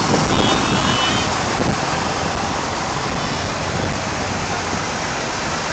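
Vintage tractor engines running, heard as a steady, noisy wash without a clear engine beat.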